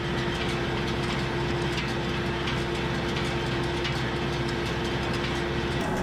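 Tractor engine running steadily with a square hay baler working behind it. Repeated clicks and clatter from the baler's moving parts run over the drone.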